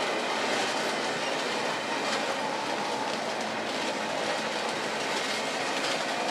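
Union Pacific double-stack intermodal train's loaded well cars rolling past close by: a steady rumble and rattle of steel wheels on the rails.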